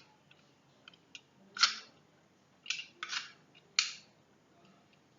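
Sharp metallic clacks from a full-metal Umarex Walther PPQ spring airsoft pistol as its slide is worked by hand: a few light ticks, then four loud clacks over the second and third seconds.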